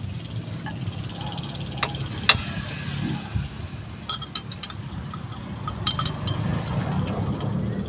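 Scattered sharp metallic clinks of hand tools and parts on metal during front shock absorber replacement work, a few single ones and then small clusters, over a steady low hum.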